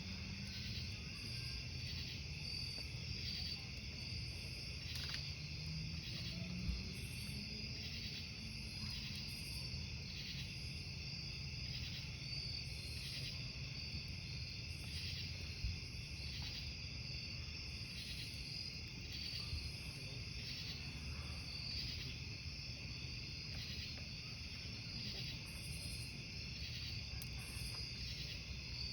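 Crickets chirping steadily in a continuous pulsing chorus, over the low rumble of a campfire with an occasional sharp pop from the burning wood, the two loudest about 7 and 16 seconds in.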